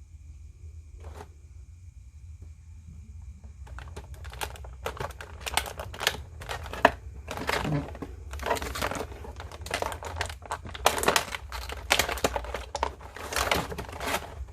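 Packaging being handled during a toy unboxing: crinkling and rustling. It starts with a few faint clicks, then from about four seconds in comes in dense, irregular bursts.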